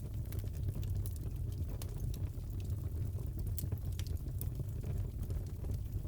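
Crackling fireplace: a steady low rumble of burning wood with irregular sharp crackles and pops throughout.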